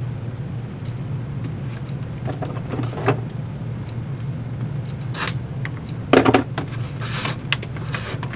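Steady low hum of shop machinery running, with scattered rustles and knocks of a leather lace being worked through a wicker basket, the loudest knock about six seconds in.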